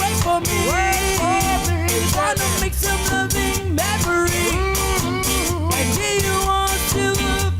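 Ska band playing an original ska song: a steady bass and drum beat with a sliding melodic lead line on top.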